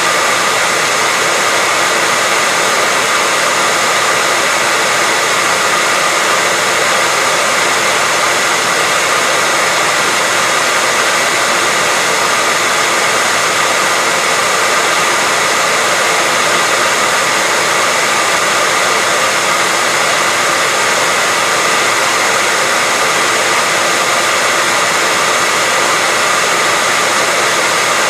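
Hair dryer running steadily: an even, unchanging rush of air with a faint high whine from its motor.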